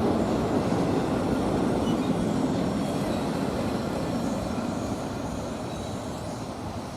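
CSX manifest freight train rolling past on the rails, the rumble and clatter of its cars steadily fading as the train moves away, with faint wheel squeal.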